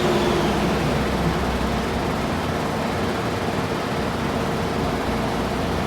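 Supercharged Audi R8 V10 on a chassis dyno winding down after a pull, with a falling pitch that fades in the first second or so. A steady mechanical whir of the dyno and engine continues after it.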